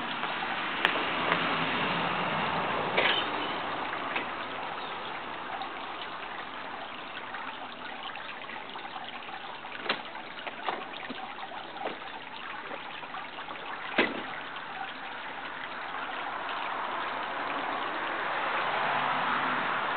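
Running water trickling steadily, with a few sharp clicks scattered through it.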